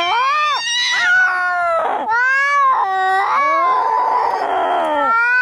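Cats caterwauling in a fight: long, wavering yowls that bend up and down in pitch, sometimes overlapping. There are harsh, noisy stretches about two seconds in and again from about three and a half to five seconds.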